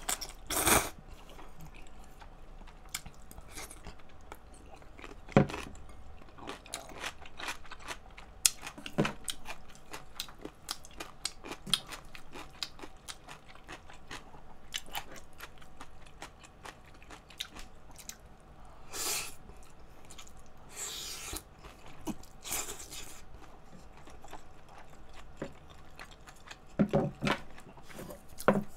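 Close-miked chewing of ramen noodles and kimchi fried rice: many wet mouth clicks and smacks, with a few short, louder slurps, the loudest near the end.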